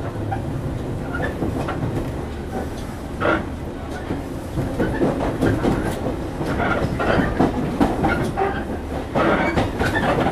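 JR 115 series electric multiple unit running, heard from inside the car: a steady low rumble with scattered clatters and knocks of the wheels over the track, more frequent in the second half.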